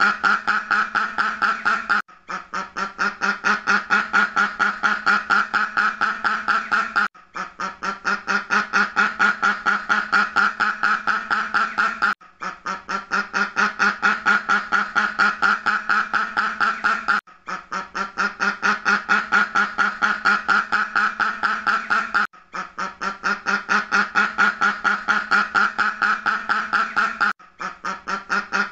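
Ducks quacking in a rapid, dense run of quacks, broken by a short gap about every five seconds as the same stretch repeats.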